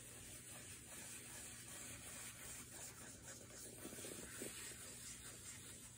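Near silence: faint steady hiss of room tone, with a brief faint murmur about four seconds in.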